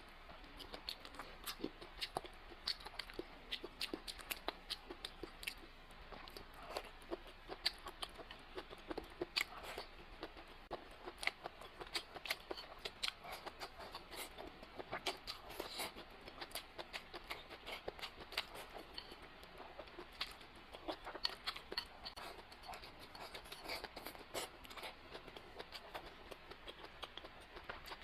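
A person eating close to the microphone: wet chewing and crunching, made of many small irregular clicks, several a second.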